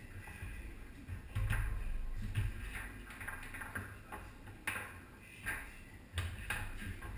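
Foosball being played on a Tornado table: a run of irregular sharp clacks and knocks as the ball is struck by the figures and rebounds off the table, some with a low thump beneath.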